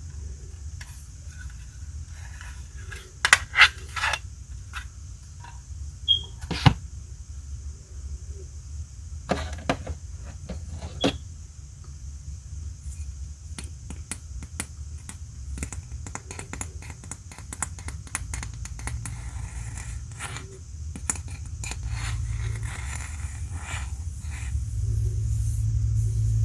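Small sharp clicks and scrapes from handling a sixth-scale action figure, its parts and packaging, scattered irregularly with a few louder clicks. Underneath runs a steady low rumble that grows louder near the end.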